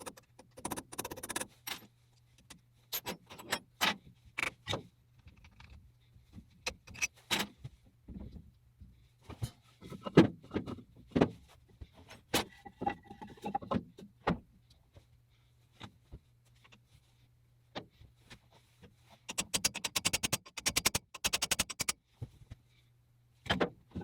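Irregular clicks, clinks and knocks of small hard objects being handled, with a quick rattling run of clicks near the end, over a steady low hum.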